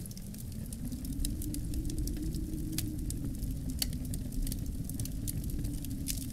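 Wood fire crackling in a fireplace, with irregular small pops and a sharper snap a little under four seconds in, over a steady low rumble of wind.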